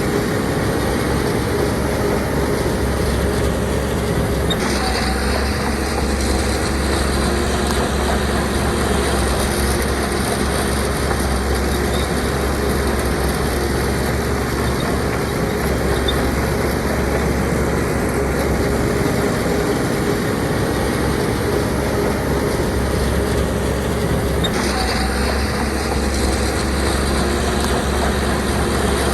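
Heavy diesel earthmoving machinery running steadily, its engine note shifting about four seconds in and again near the end.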